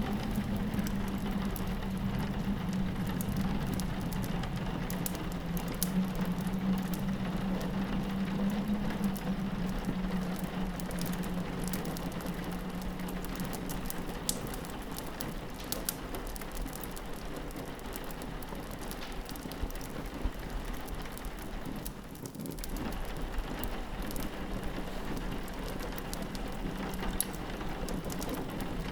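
Rain pattering on a window with a fireplace crackling in sharp little pops, over a steady low howl of wind. The whole bed dips briefly about two-thirds of the way through.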